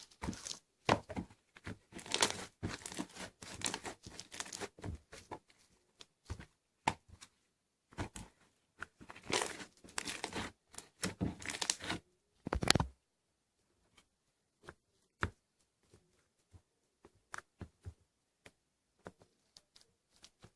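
Slime being played with by hand: dense crackling and popping for about the first thirteen seconds, then only scattered single pops.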